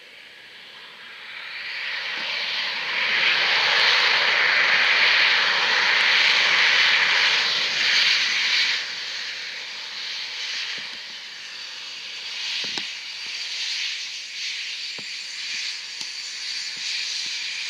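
Jet aircraft engines going by. The engine noise swells over the first three seconds, stays loud for about six seconds, then drops to a lower level that lingers.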